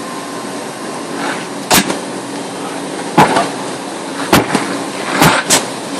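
A handful of sharp knocks or bangs, five in all, roughly a second apart, over a steady background hum.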